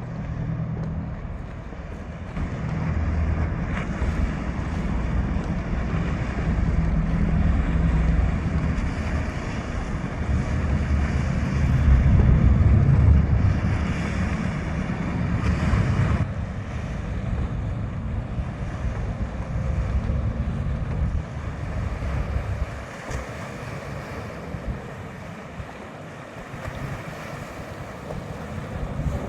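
Wind buffeting the microphone in gusts, loudest a little under halfway through, then easing off.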